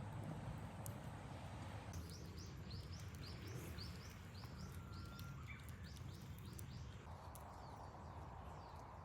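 A bird calling in a quick series of short, repeated high notes, about three a second, which stop after about five seconds. A steady low rumble runs underneath.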